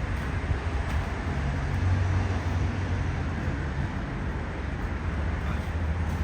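Road traffic noise: a steady low rumble of passing engines and tyres.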